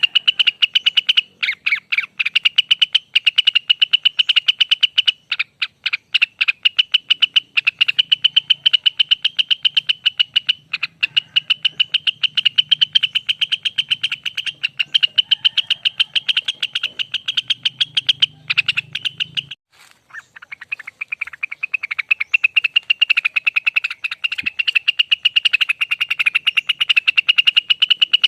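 Cucak rengganis (cucak wilis) singing its long 'ropel', a rapid trill of fast repeated high notes that runs on almost without a break, pausing briefly about two-thirds of the way through before resuming.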